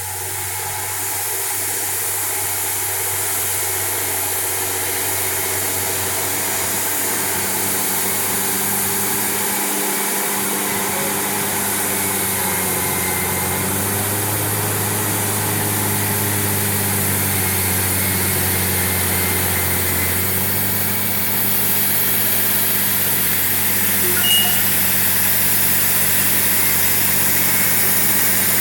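Cat D8N bulldozer's diesel engine running steadily while pushing topsoil; its note shifts in pitch for several seconds midway as the load changes.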